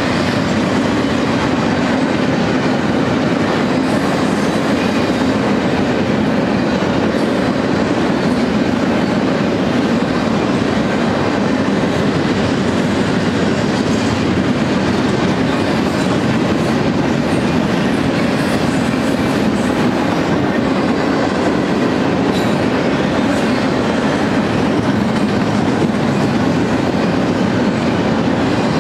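Double-stack intermodal freight train's loaded container well cars rolling past, a steady, loud rumble of steel wheels on the rails.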